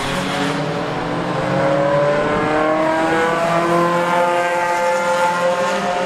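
Unsilenced race car engine under hard acceleration, its note rising steadily in pitch.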